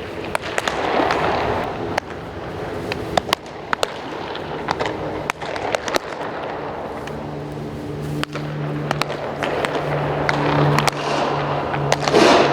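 Scattered sharp clicks and pops, irregularly spaced, over a steady background din with a low hum.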